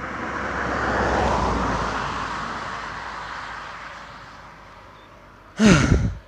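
A vehicle passing by: its sound swells to a peak about a second in, falls in pitch and fades away over several seconds. Near the end a short, louder burst with a quickly falling pitch cuts off suddenly.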